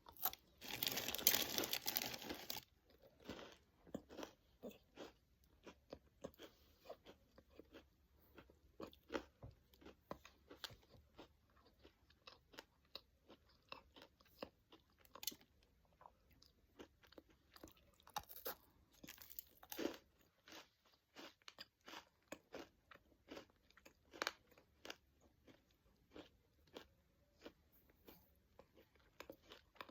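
Close-up chewing and crunching of a caramel-dipped pretzel rod: a steady irregular stream of small crisp crunches, after a louder noisy stretch of about two seconds at the start.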